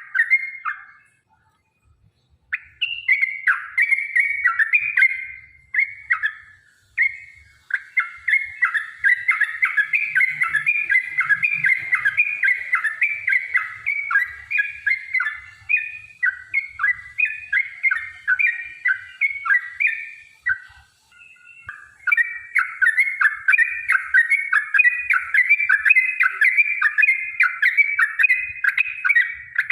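Yellow-vented bulbul (trucukan) singing long, fast runs of short chattering notes, several a second, with a brief break about a second in and another about two-thirds of the way through.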